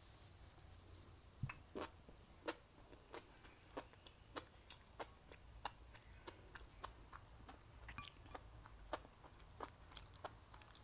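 A person chewing a mouthful of mala stir-fry, with small wet mouth clicks coming irregularly a few times a second.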